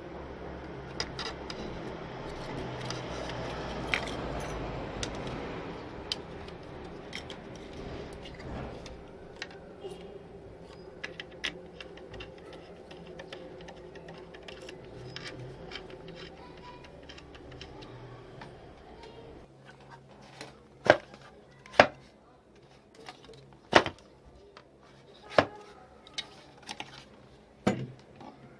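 Hands working with tools and hard parts: light scattered clicks and rattles, with a steady low hum in the first several seconds, then about seven sharp clicks or knocks in the last third.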